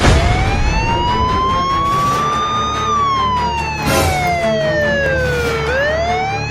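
Police siren wailing, starting abruptly: one slow rise in pitch, a slow fall, then a new rise near the end.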